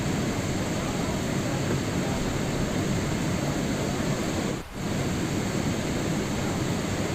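Steady rain sound, an even hiss with no letup. It dips briefly about four and a half seconds in.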